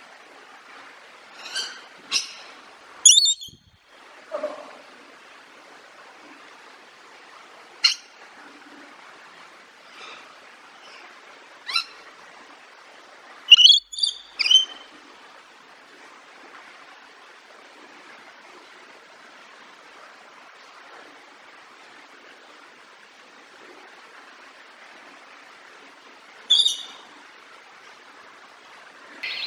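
Birds giving short, scattered chirps and calls at irregular intervals, a few close together in the first half and one more near the end, over a faint steady background hiss.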